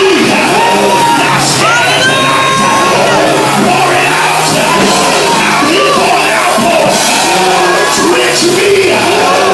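Loud church music with many voices shouting and singing over it.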